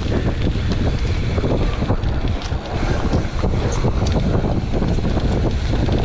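Wind buffeting the microphone over the rumble of a mountain bike riding down a rough trail, with frequent small knocks and rattles from the bike over bumps.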